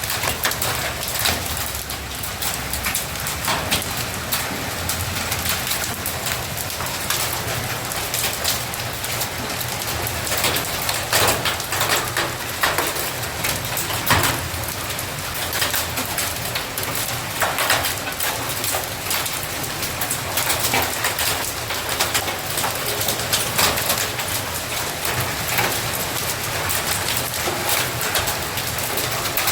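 Hail and rain falling hard, a steady hiss of rain dotted with many sharp ticks and clicks of hailstones striking hard surfaces.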